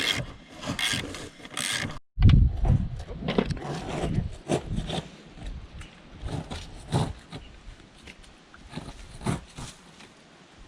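Irregular scraping and rubbing strokes, with a sudden break about two seconds in.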